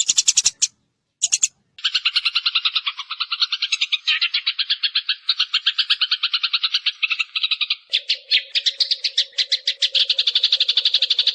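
Sparrow decoy recording: sparrows chirping in a fast, dense chatter. Two short bursts of chirps, then from about two seconds in an unbroken run of rapid chirps; a low steady hum joins about eight seconds in.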